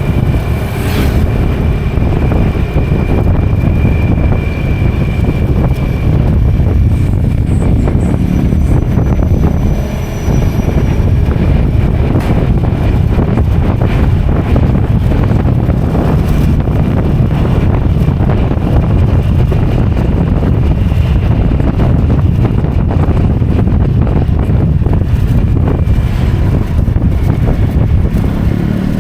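Motorcycle riding along at a steady speed: the engine running under a heavy rumble of wind on the microphone.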